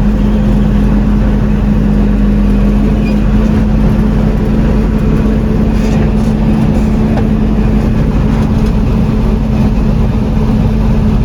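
John Deere 4400 combine's 329 diesel engine running steadily under load, a constant low drone with a steady hum.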